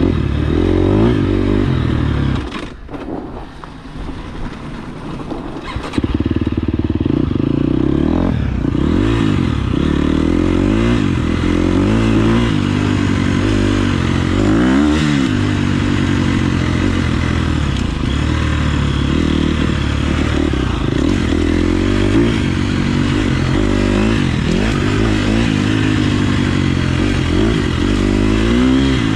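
KTM 350 SX-F's single-cylinder four-stroke engine revving up and down over and over while being ridden, dropping much quieter for a few seconds about two seconds in before picking up again.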